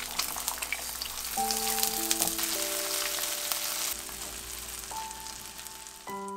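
Food frying in oil in a nonstick frying pan: a dense sizzle full of small crackles that cuts off suddenly near the end. A few soft held music notes play underneath.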